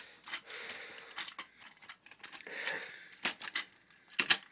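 Scattered light clicks and rustles of plastic toy trains and track being handled and moved along.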